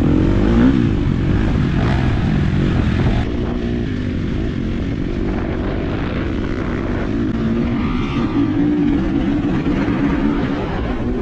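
Four-stroke motocross bike engine running under way, its pitch rising and falling as it revs up and down over a steady low rumble. The sound drops a little in loudness about three seconds in.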